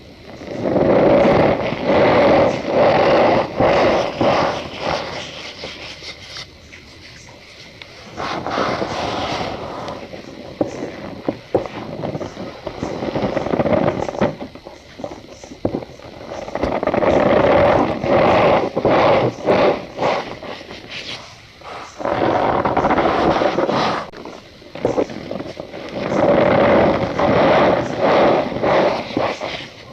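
Cornstarch powder squeezed and rubbed by hand, giving a squeaky, crunching crackle. It comes in several long spells with brief lulls between them.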